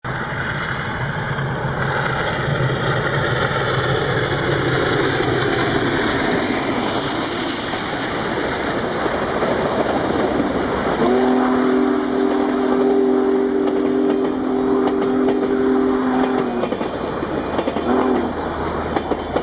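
A train passing close by, running with a steady rumble. Past the middle it sounds a long chord-like warning blast lasting about five seconds, then a short blast near the end.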